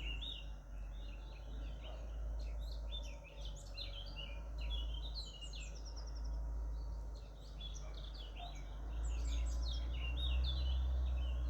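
Wild birds singing: many short, quick chirping and twittering phrases from several small birds, over a steady low rumble.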